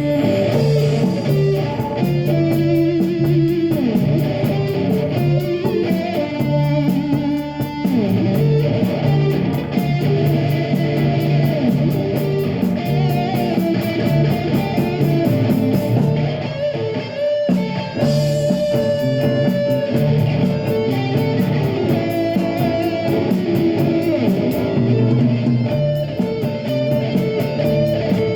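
Live rock band playing an instrumental passage: electric guitar over bass guitar and a steady drum beat, with no singing. The high cymbal beat drops out for about two seconds midway.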